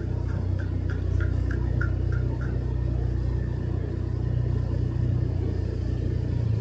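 Motorcycle engine running steadily with a low rumble. A row of short high beeps, about three a second, stops about two and a half seconds in.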